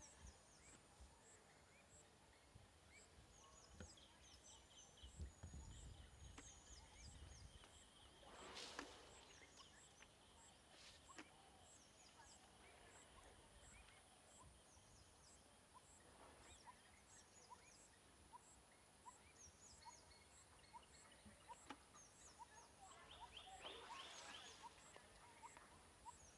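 Faint natural ambience: birds chirping in short repeated phrases over an even, high ticking that keeps on throughout.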